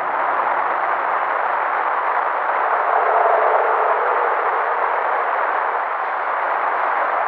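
Heavy steady hiss of a field recording, with a faint, long, howl-like tone rising out of it about three seconds in and sinking to a lower pitch. The sound is put forward as a possible sasquatch howl, and its source is unidentified.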